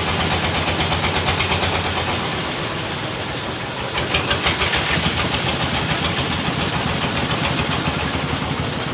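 An engine idling steadily with an even, rhythmic chug, with a brief rise in rattly higher noise about four seconds in.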